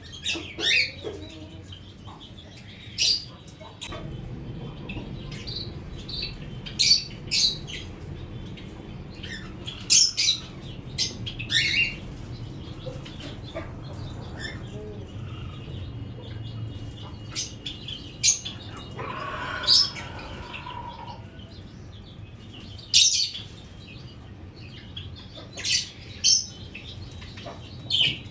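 Aviary budgerigars chirping in short, sharp calls scattered throughout, with flapping wings, over a steady low hum. A longer, fuller call stands out about two-thirds of the way through.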